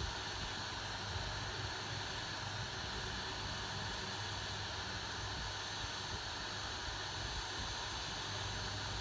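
Steady rush of blowing air from electronics-repair bench equipment: an even hiss with a low hum underneath, unchanging throughout.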